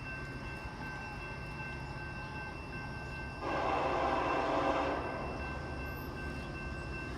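A train horn sounds one blast of about a second and a half, about halfway through, over the steady low rumble of a train.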